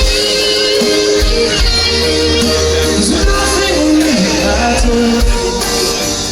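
Live rock band playing through a PA, with bass, drums and a sung or instrumental melody line.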